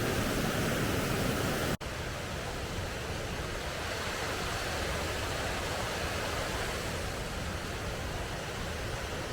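Waterfall on a mountain stream rushing steadily; a little under two seconds in it cuts abruptly to a slightly quieter, softer rush of water.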